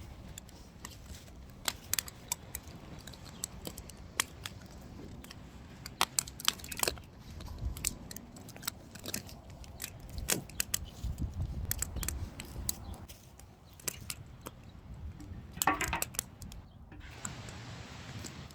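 Wood fire burning: irregular crackles and sharp pops from the burning firewood, with a denser run of crackling near the end.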